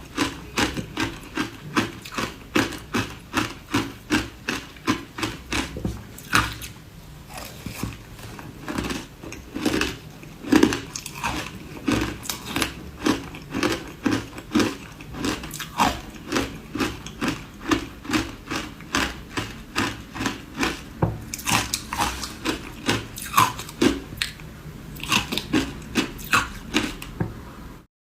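Ice dusted with matcha powder being bitten and chewed, a steady run of sharp crunches at about two to three a second.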